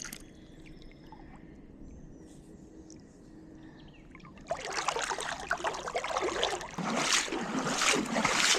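Faint open-air quiet with a few thin chirps. About halfway through, close water splashing and trickling starts suddenly and runs on loudly and unevenly.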